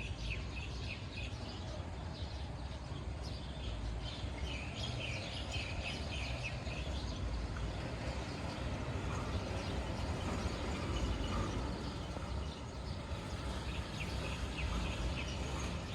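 Freight train running through the station with a steady low rumble, and small birds chirping over it in the first few seconds and again near the end.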